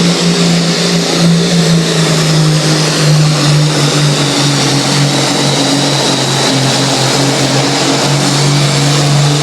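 Competition pulling tractor's engine running loud and hard at high revs under load, a steady heavy drone whose pitch shifts slightly upward partway through.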